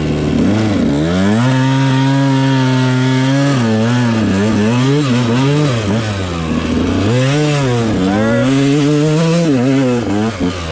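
Dirt bike engine revving up and holding high revs for a couple of seconds, then rising and falling several times as the throttle is worked through a jump.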